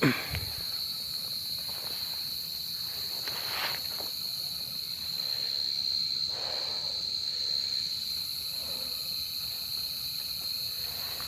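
Field crickets calling in a steady, continuous high trill. A brief loud knock with a falling sweep right at the start, and faint rustling now and then.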